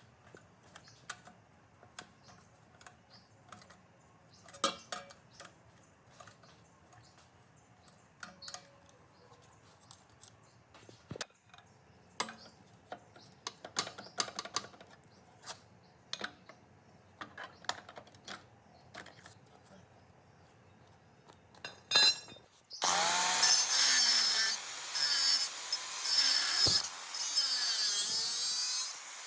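Scattered light clicks and taps of small parts being handled. About 23 seconds in, a power tool starts and runs loud and harsh, its pitch wavering as it works.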